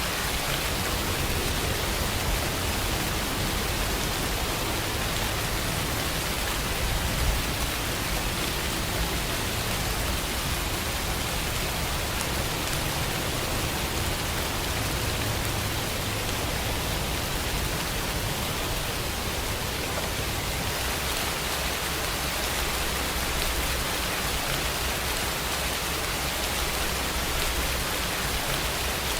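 Steady rain falling, an even hiss with no let-up. A deep low rumble under it eases off about two-thirds of the way through.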